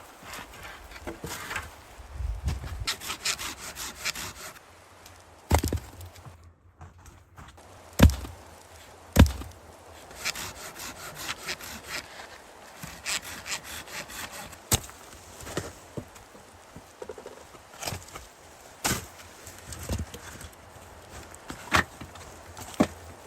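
Wood being sawn by hand, with runs of quick rasping strokes, broken by several sharp knocks of wood.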